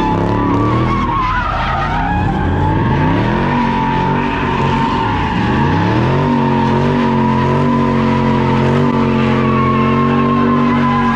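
A car doing a burnout: the engine is held at high revs while the rear tyres squeal steadily. The engine note drops and climbs back twice, about a second in and again about five seconds in, then holds steady.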